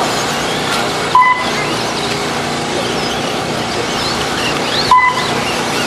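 Radio-controlled off-road trucks racing, their motors giving thin whines that rise and fall as they accelerate and brake. A short electronic beep sounds about a second in and again near the end, typical of a lap-timing system counting a car across the line.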